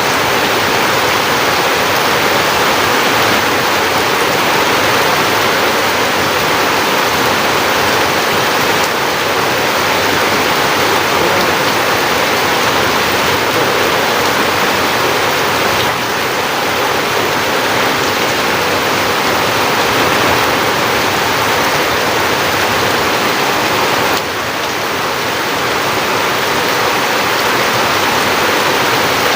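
Heavy rain pouring down in a dense, steady hiss, easing slightly for a moment about three-quarters of the way through.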